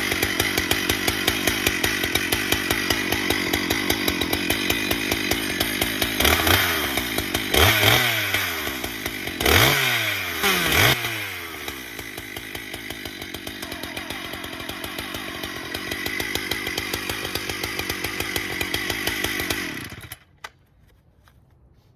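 Husqvarna 395 XP two-stroke chainsaw, freshly repaired with a new clutch spring, running steadily. Between about 6 and 11 seconds in it is revved up and let back down four times, then it settles to a lower idle and is shut off about 20 seconds in.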